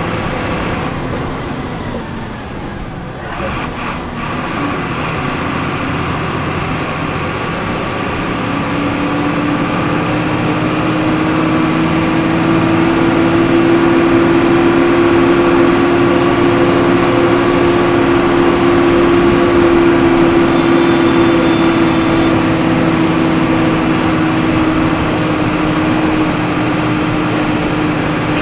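Volkswagen 17.230 EOD city bus engine heard from inside the bus, running under way: after a brief easing a few seconds in, the engine note climbs slowly and gets louder as the bus pulls, then holds steady and eases slightly near the end.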